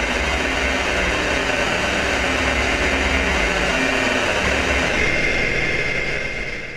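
Factory machine running steadily with a low hum and a thin high whine that stands out near the end, then fading out over the last second.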